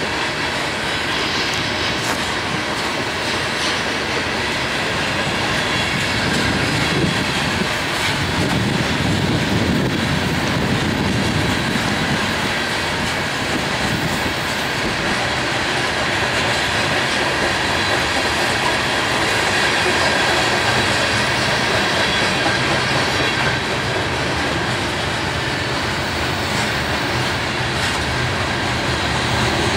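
Coal hopper cars of a freight train rolling steadily past, their wheels clattering over the rail joints.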